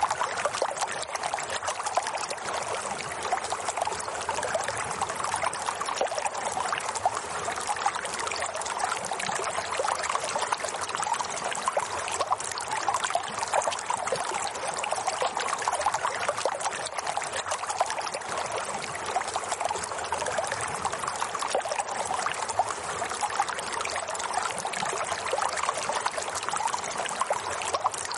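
Running water trickling and splashing steadily, like a small stream or brook.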